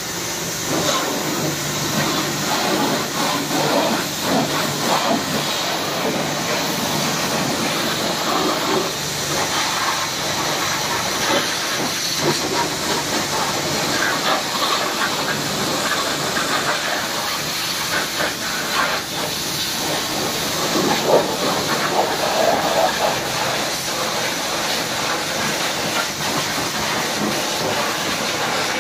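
Pressure-washer jet spraying water over a muddy two-wheeler to blast the mud off. It is a steady spray that swells and dips a little as the jet moves over the bodywork.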